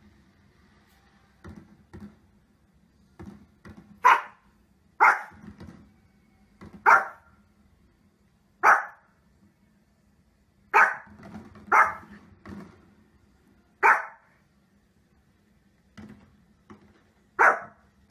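A small fluffy dog barking: eight sharp single barks, one to two seconds apart, beginning about four seconds in, with a few fainter short sounds between them.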